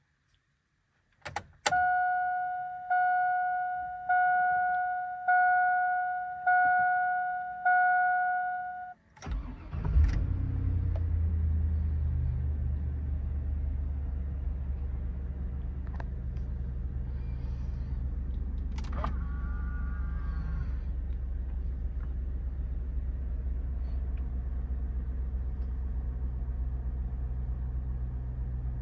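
A dashboard warning chime dings six times, about a second apart. Then the 2002 Cadillac Escalade's V8 cranks briefly, catches with a rev about ten seconds in and settles into a steady cold-start idle.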